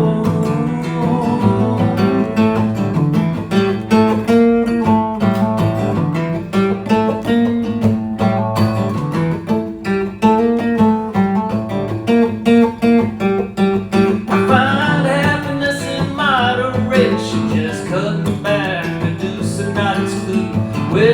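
Live band music with no words sung: strummed acoustic guitar chords over a bass line, in an instrumental passage of a two-chord song. A higher, bending melody line comes in about two-thirds through.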